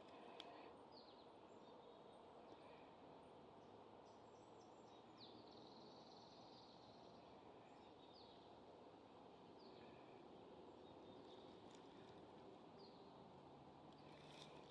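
Quiet woodland with faint birdsong: short high chirps that drop in pitch, repeated every second or two, and a longer held note about five seconds in, over a steady soft hiss.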